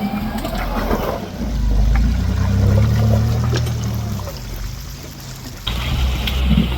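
Off-road 4x4 truck engine running at low revs with water and mud splashing around it. The engine swells and then eases off, and the sound changes abruptly near the end.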